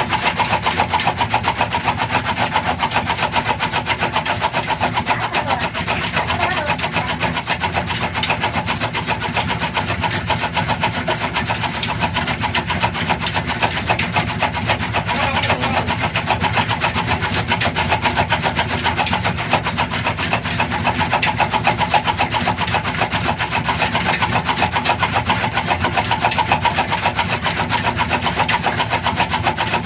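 Black Peter single-cylinder stationary diesel engine running steadily, with a rapid, even beat.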